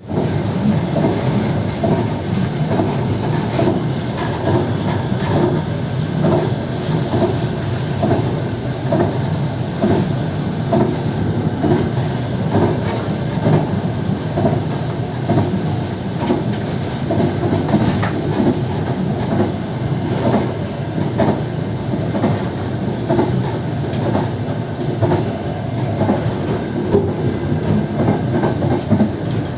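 Passenger train carriage running at speed, heard from the window of the last car: a steady rumble of wheels on rail with a regular clickety-clack over the rail joints.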